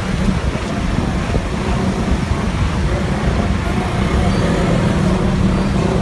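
A motor vehicle engine running steadily, a low even hum with road and traffic noise over it.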